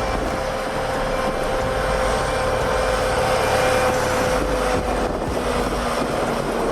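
Loaded logging truck's engine running steadily under load, with a steady whine over the noise of the drive.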